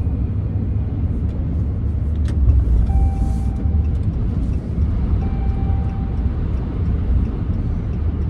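Door-ajar warning chime in a 2014 Ram 1500 pickup: two steady, single-pitched tones about a second long each, a couple of seconds apart, signalling that a door is sensed as open. Under it, the steady low road rumble inside the truck's cab.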